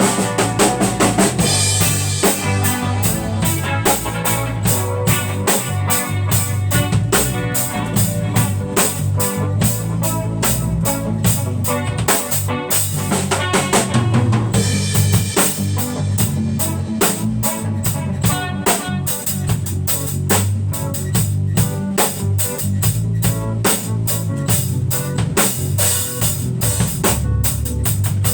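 A band playing an instrumental piece, with a drum kit keeping a steady beat of kick, snare and rimshots over bass and other instruments.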